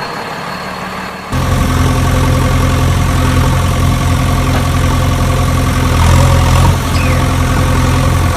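Tractor engine idling steadily, with an even low throb. It becomes much louder suddenly about a second and a half in.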